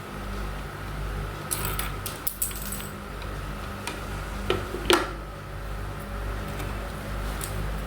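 Small plastic craft pieces being handled on a table: a short run of clattering clicks about two seconds in, then two sharp clicks near the middle and a few faint ticks. A steady low hum runs underneath.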